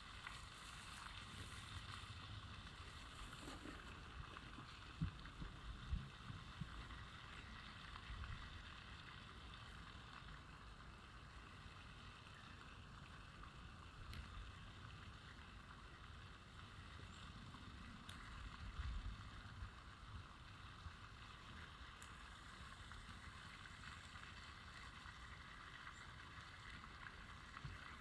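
Faint, steady outdoor ambience: an even hiss with occasional low rumbles and a few soft clicks.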